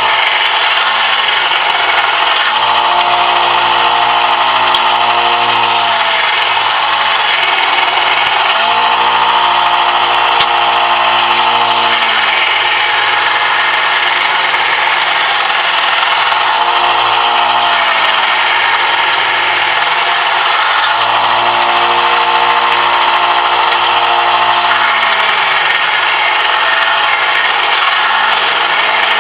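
A power sander running continuously while shaping a brass piece, metal being ground against the abrasive. Its motor tone shifts in stretches of a few seconds.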